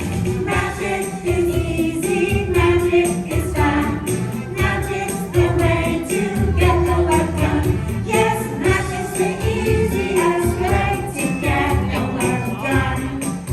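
An upbeat song with a group of voices singing over a steady beat and jingling percussion.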